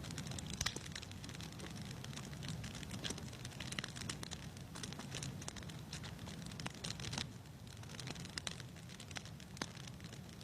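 Wood fire crackling in a fireplace: irregular pops and snaps over a low, steady rumble.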